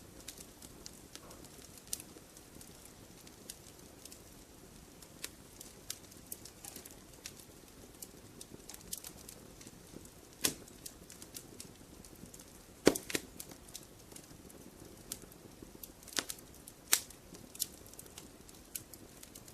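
Wood fire in a fireplace crackling, a low steady rumble of flames under a constant run of small snaps and pops, with a few louder pops about halfway through and near the end.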